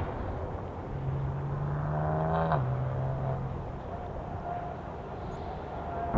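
Jet airliner engines rumbling on the runway, a low engine tone dropping in pitch about two and a half seconds in and fading away.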